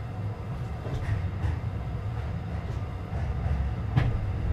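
Keihan limited express train running at speed, heard from inside the passenger car: a steady low rumble from the wheels and running gear, with a sharp knock about four seconds in.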